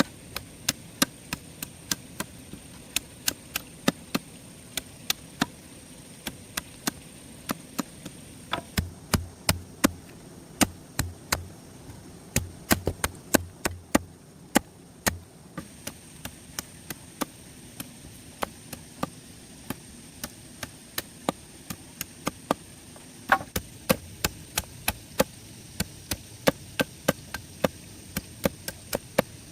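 Rapid, repeated sharp chopping strikes, about two to three a second, with heavier thuds in the middle stretch. A faint, steady high-pitched tone runs underneath.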